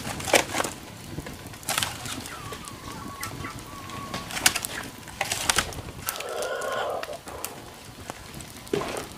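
Bird calls, wavering tones that come and go, mixed with scattered sharp clicks and knocks.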